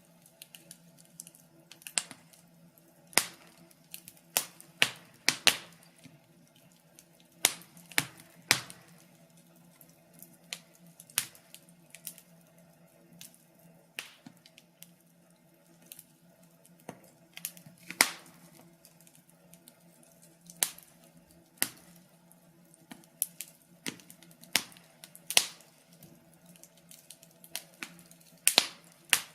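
Wood fire crackling in a fireplace: irregular sharp pops and snaps, sometimes several in quick succession, over a faint steady hum.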